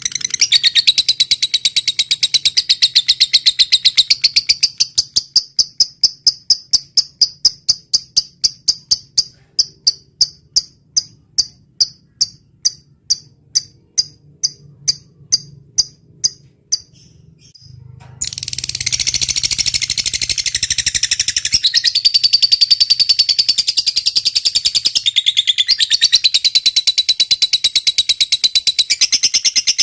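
High-pitched bird chirping from a songbird training (masteran) recording. Dense chattering gives way after a few seconds to a long run of evenly spaced chirps that slowly spread out and fade. After a brief pause, dense chattering starts again about 18 seconds in.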